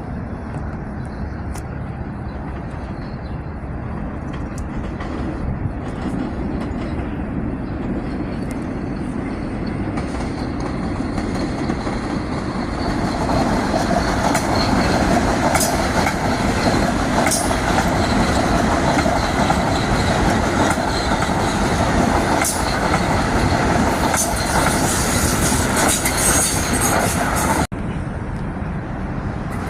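Metro-North commuter train passing on the track, its rumble building after about ten seconds and holding loud, with wheels clattering over rail joints and a few brief high wheel squeals. The sound breaks off abruptly for a moment near the end.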